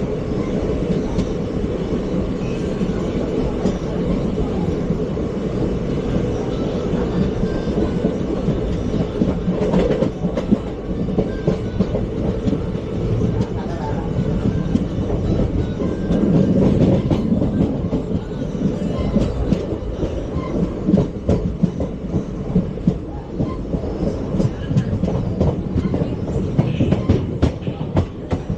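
Indian Railways ICF passenger coaches running along the track: a steady wheel-on-rail rumble with repeated clicks as the wheels pass over rail joints. The clicks grow sharper and more frequent in the second half.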